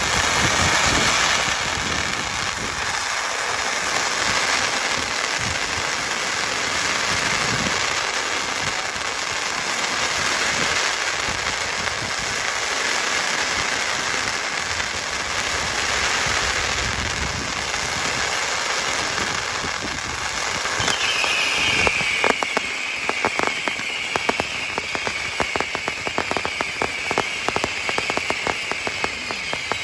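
Fireworks display: a dense, continuous crackle and hiss of bursting shells. About two-thirds of the way through it changes to rapid crackling pops, with a run of short falling whistles.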